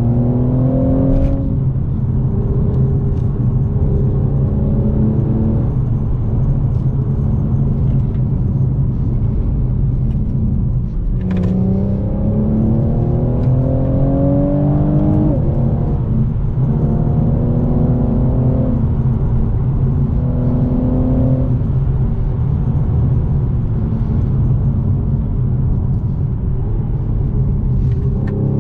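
Mercedes-AMG E43's twin-turbo V6 pulling hard under acceleration, heard from inside the cabin over a steady road rumble. The engine note rises through the revs and drops back at upshifts, about a second in and again near eleven seconds, then holds steadier for a while before climbing again near the end.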